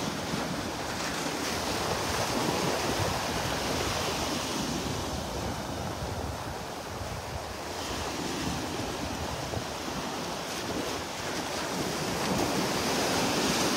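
Gulf of Mexico surf washing onto the beach, mixed with wind rushing on the microphone. The noise swells and eases slowly, dipping about halfway through.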